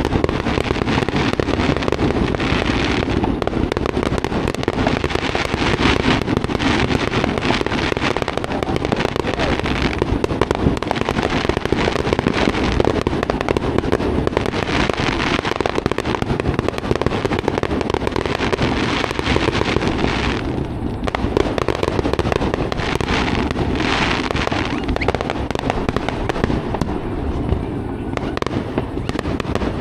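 Fireworks going off in a continuous dense barrage of crackling pops and bangs.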